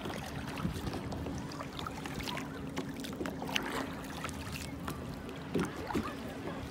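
Water lapping and splashing around a small boat bobbing on the sea, with scattered light knocks and a faint steady hum underneath.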